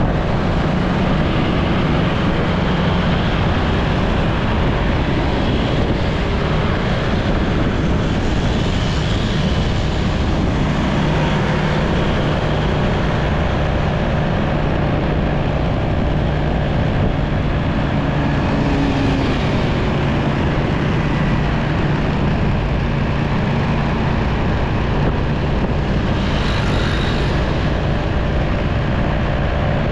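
Motorcycle engine running steadily while riding through traffic, with wind and road noise. A brief hiss from another passing vehicle comes near the end.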